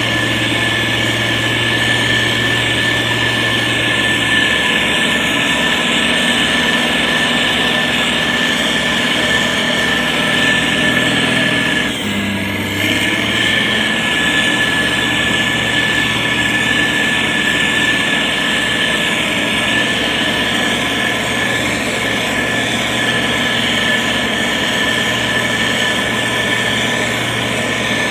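SANY STG190C-8S motor grader's diesel engine running steadily under working load, with a constant high whine over a low hum; the sound dips and shifts briefly about twelve seconds in.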